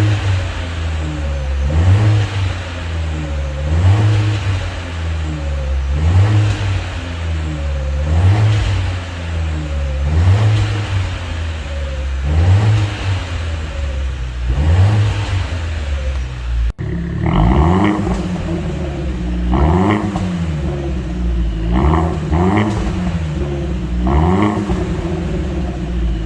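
Chevrolet Trax engine revved again and again through a custom valved exhaust, its pitch rising and falling about every two seconds. About two-thirds of the way in the sound changes abruptly and turns brighter, with short crackly spurts on each rev.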